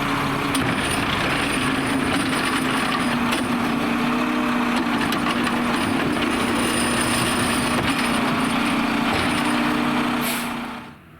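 Mack LR garbage truck with a McNeilus ZR rear-loader body running close by: steady engine and machinery noise with a sustained whine and some clatter. The sound drops off sharply near the end.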